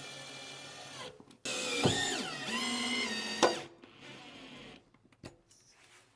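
Cordless drill-driver whining in two runs, its pitch dipping and recovering as the motor loads up while driving screws, followed by a sharp click near the end.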